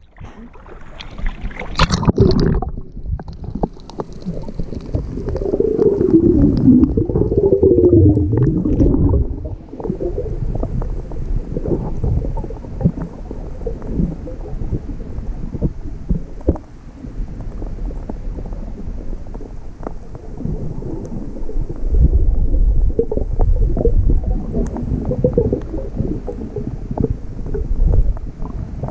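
Muffled underwater sound picked up by a GoPro in its waterproof housing: low rumbling water movement with many small clicks and crackles throughout. A brief splash-like sound comes about two seconds in, and a wavering hum rises and falls from about five to nine seconds in.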